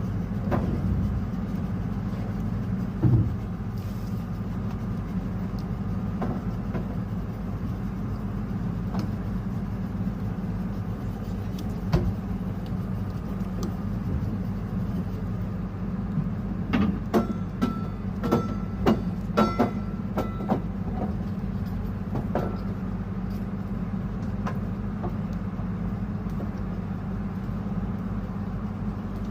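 An engine running with a steady drone. There are single knocks about 3 and 12 seconds in, and a quick run of knocks and clatters from about 17 to 20 seconds.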